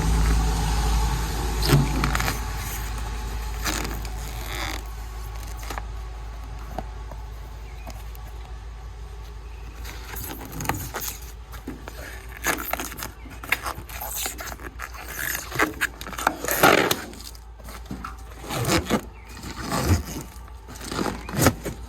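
Rubbery Plasti Dip coating being peeled off a truck's body panel: irregular ripping and crackling strips, coming thicker from about halfway on. A low rumble fades away over the first few seconds.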